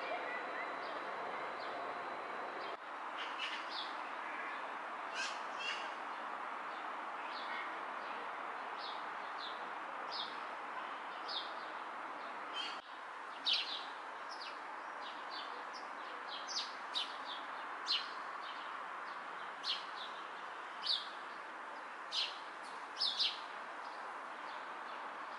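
Small birds chirping: short, sharp, high calls that drop in pitch, repeated irregularly and coming more often in the second half, over a steady background hush.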